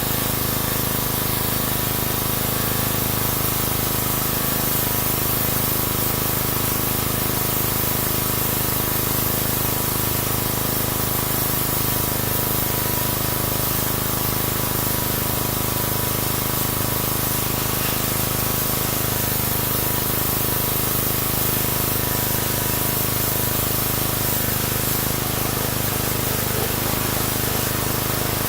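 Pressure washer running and spraying water: a steady hiss of the jet over a constant hum, with no breaks.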